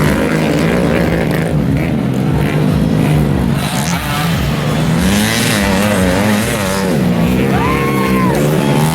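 Several small underbone motorcycle engines racing, revving up and down one over another as the bikes accelerate and back off. A short clear tone, rising then falling, sounds near the end.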